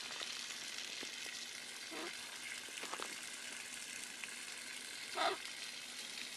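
A steady, even hiss of outdoor background noise with a few faint clicks, and one short, louder call about five seconds in.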